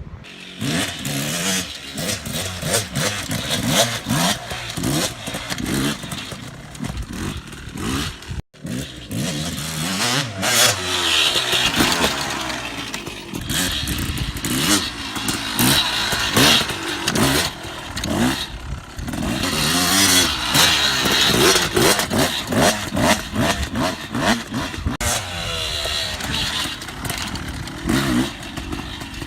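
Dirt bike engine being ridden hard, the revs climbing and dropping over and over. The sound cuts out for an instant about eight seconds in.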